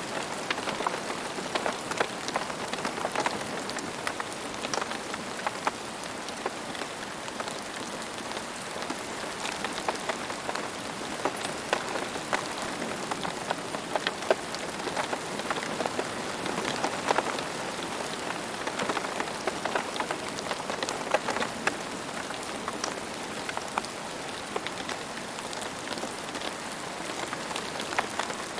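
Steady rain falling, with a continuous hiss and many distinct close drops pattering throughout.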